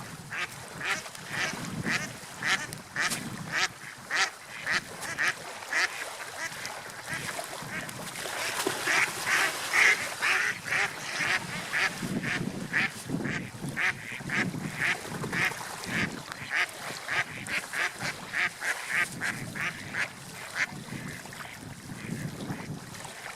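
Gulls calling in a long series of short, repeated calls, two or three a second, over a steady rushing background noise.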